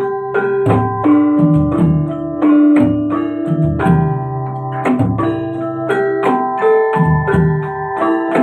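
Malay gamelan ensemble playing: struck bronze metallophones ringing out a melody in a steady pulse, over low drum strokes.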